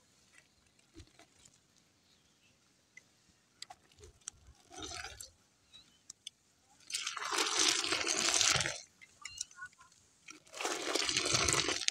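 Liquid splashing and hissing in three bursts, the longest about two seconds, with small clicks and knocks between: a pot of juniper-berry molasses boiling over and being brought under control.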